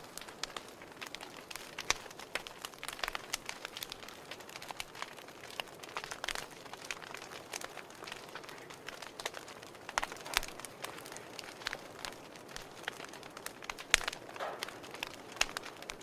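Fire crackling: an irregular run of pops and snaps over a soft hiss, with a few sharper pops about ten and fourteen seconds in.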